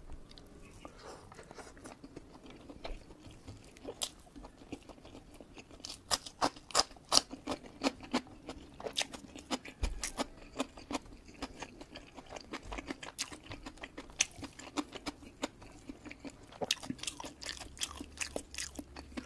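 Close-miked eating sounds: a mouthful of rice with sambal chewed with the mouth closed, giving many small clicks and crackles, thickest in the middle of the stretch.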